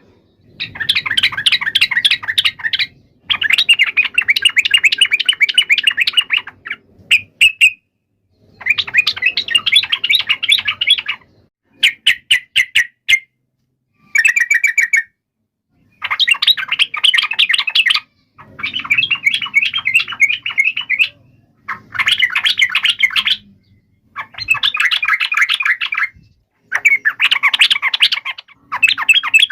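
Yellow-vented bulbul giving an agitated, fighting chatter: about a dozen bursts of fast, rattling notes, each one to three seconds long, with short pauses between them.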